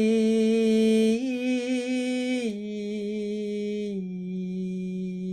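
A woman's voice toning long, slow sustained vowel tones in the lower range of her voice, with no words. The held note lifts slightly about a second in, then steps down in pitch twice and softens.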